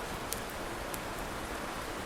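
Wood fire crackling: a steady hiss of burning with a few sharp pops, the clearest about a third of a second in and another about a second in.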